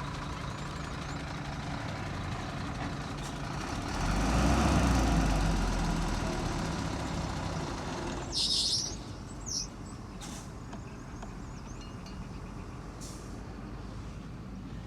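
Heavy diesel engine running steadily, then about four seconds in it gets louder and deeper for a few seconds before easing off. A little past eight seconds there is a sharp hiss of an air brake, and a shorter one about a second later. After that the engine runs on more quietly.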